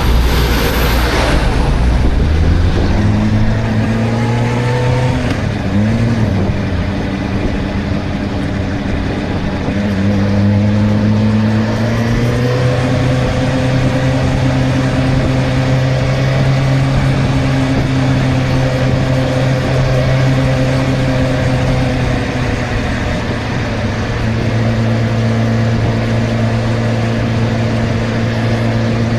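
Suzuki GSR 600's inline-four engine running while riding. Its pitch steps and glides over the first several seconds as the speed changes, then settles into a steady cruising note, with a constant rush of noise over it.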